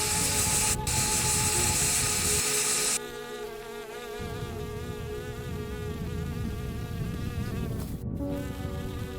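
Bees buzzing steadily, a droning hum that wavers slightly in pitch and comes in about three seconds in, after a steady rushing noise cuts off.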